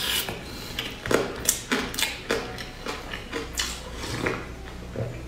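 Close-miked chewing of sticky glutinous rice with crushed peanuts: a run of irregular wet clicks and smacks, several a second. Near the end comes a sip from a ceramic bowl.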